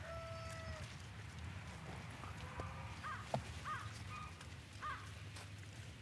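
Faint outdoor ambience with a bird giving three short calls between about three and five seconds in.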